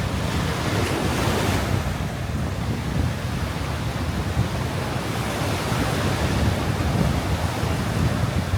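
Ocean surf breaking on a sandy beach, with strong wind buffeting the microphone as a constant low rumble. A wave washes in louder from about half a second to two seconds in.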